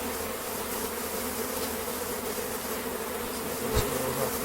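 Steady buzzing of many honeybees flying around an opened, very strong hive, with a single short knock about four seconds in.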